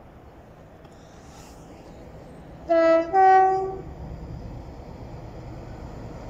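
Class 60 diesel locomotive sounding its two-tone horn about three seconds in: a short lower note, then a slightly longer higher one. A low rumble slowly builds after it as the locomotive approaches.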